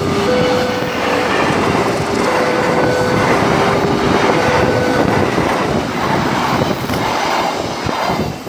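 Fast parcel train passing close at speed: a loud rush of wagons and wheels with clickety-clack. Its horn keeps sounding in two alternating tones for about the first five seconds, and the rush drops away near the end as the train clears.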